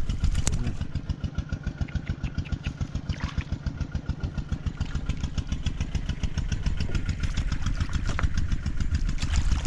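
A small engine running steadily, with a fast, even pulsing beat.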